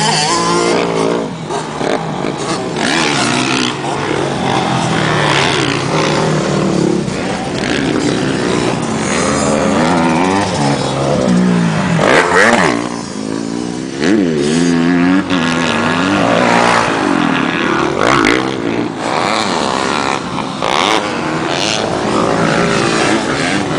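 Honda motocross dirt bike engine revving up and falling back again and again while being ridden, its pitch rising and dropping every few seconds.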